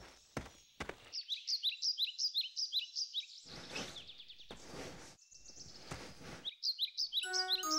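A few footsteps at the start, then birds chirping in quick repeated high tweets, interrupted in the middle by a few soft rushing noises. A music cue comes in near the end.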